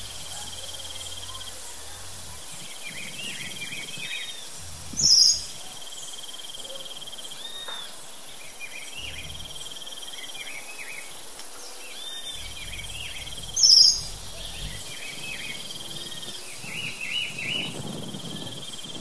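Birds chirping over a steady insect trill, with a short, loud, high call twice, about five seconds in and again near fourteen seconds.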